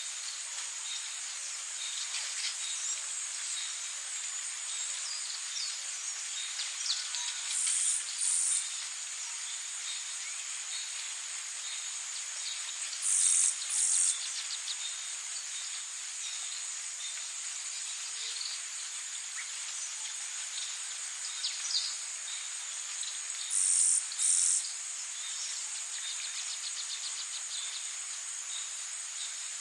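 Tropical nature ambience: a steady high-pitched insect chorus with scattered bird calls. Three times, about 8, 13 and 24 seconds in, a loud double chirp rises above the chorus.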